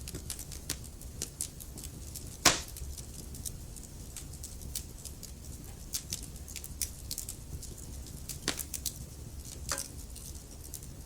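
Wood logs burning in a fireplace, crackling with irregular sharp snaps over a steady low rumble. One loud pop comes about two and a half seconds in, and a few more stand out near the end.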